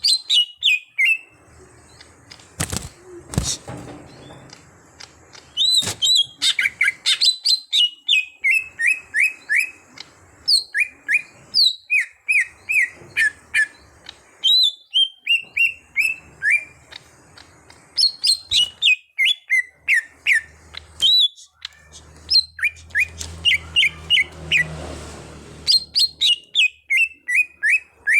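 A cucak hijau (green leafbird) singing: quick strings of short, sharp whistled notes, many runs stepping downward in pitch, repeated over and over with brief pauses. There is a single knock at about three seconds, and a short rushing noise with a low hum a few seconds before the end.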